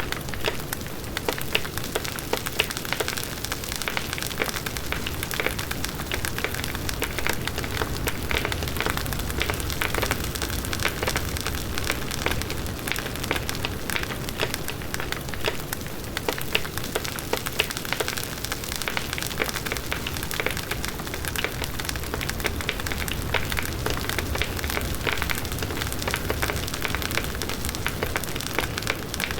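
Large wood bonfire burning steadily: a dense rush of flames with constant sharp crackles and pops from the burning wood.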